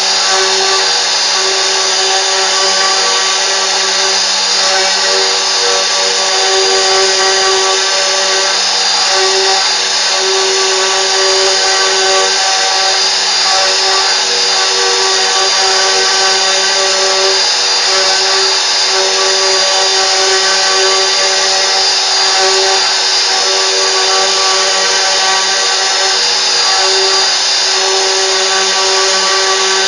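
CNC router spindle running steadily while machining, a constant whine of several held tones over cutting noise.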